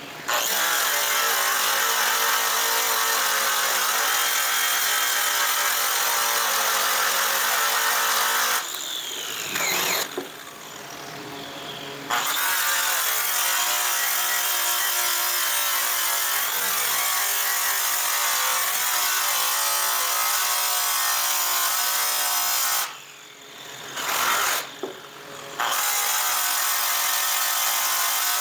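Electric polishing tool running under load on a metal exhaust pipe, its motor note wavering slightly. It stops and starts again twice, about nine seconds in and about twenty-three seconds in.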